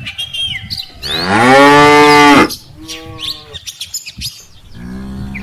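Cattle mooing: one long, loud moo about a second in, a shorter, quieter moo right after it, and another moo beginning near the end.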